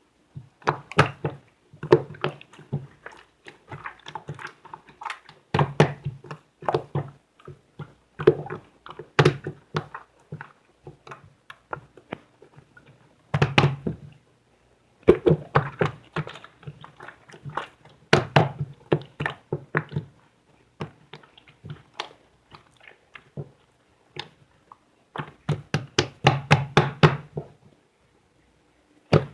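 Soft clay being handled by hand: clusters of sticky taps, squishes and dull thunks with short pauses between them.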